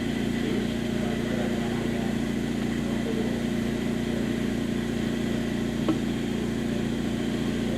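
Honda Type R engine idling steadily on a dyno, with a faint steady high whine from the accessory pulleys, which the owner puts down to the AC. A single short click about six seconds in.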